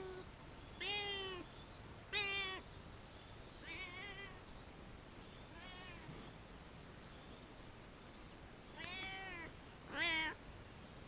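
Domestic cat meowing over and over: about six separate meows, each under a second long, a second or more apart, the middle few fainter than the rest.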